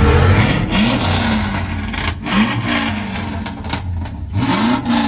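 Truck engines revving at a meet, the pitch rising three times over a steady engine rumble.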